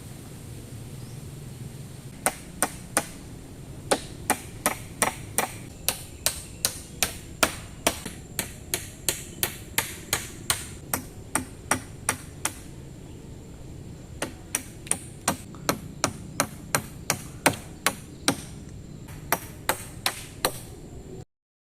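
Repeated chopping strikes of a tool on wood, about two a second, in two runs with a short pause in the middle, over a steady low background noise. The sound cuts off abruptly near the end.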